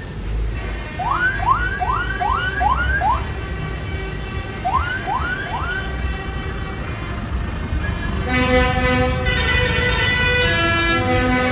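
A parade vehicle's siren sounding short rising whoops over a low engine rumble: six in quick succession, then three more. From about eight seconds in, a loud tune with steady, stepped notes starts playing.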